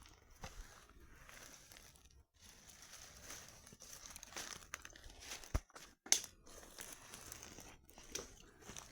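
Dry kindling of a bonfire crackling and crinkling irregularly, with two sharp snaps a little past halfway.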